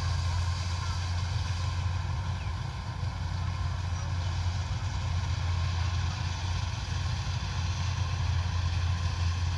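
Kubota DC-105X combine harvester running steadily: a constant low engine drone with a steady mechanical hum above it, unchanging throughout.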